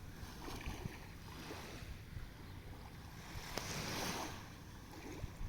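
Sea waves washing onto the shore, one wash swelling louder a little past halfway, with low wind rumble on the microphone.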